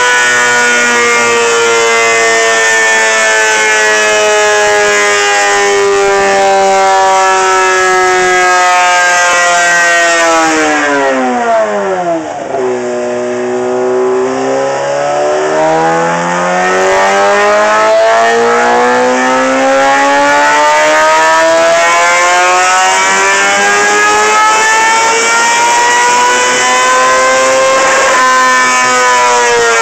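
Yamaha R6 inline-four sportbike engine running hard on a dyno, very loud. Its pitch sinks slowly for about ten seconds, drops quickly to a low point about twelve seconds in, then climbs steadily for about fifteen seconds before falling again near the end.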